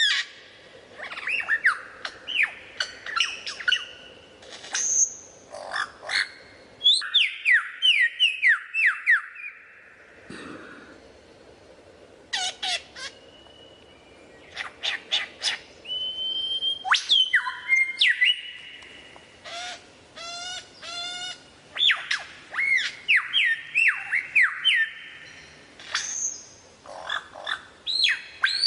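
Lyrebird singing a varied run of calls: loud descending whistles, quick series of sweeping notes, and a fast ticking rattle, with short pauses between phrases.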